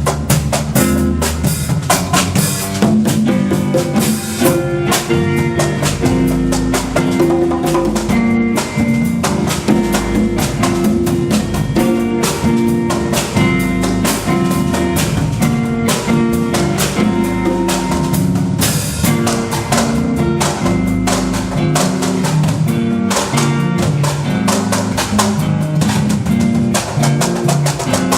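Band music with a drum kit playing a steady beat over guitar and bass.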